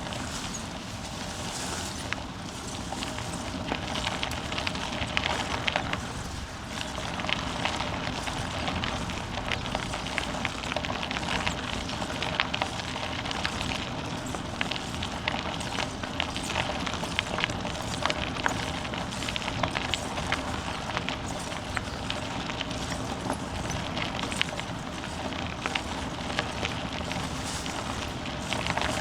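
Bicycle rolling along an unpaved forest path: steady tyre noise with many small crackles and rattles from the tyres on loose ground and from the bike.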